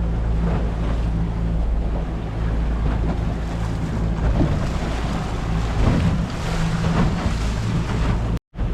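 Boat engine running steadily at slow trolling speed, with wind on the microphone and water noise around the hull. The sound cuts out for a moment near the end.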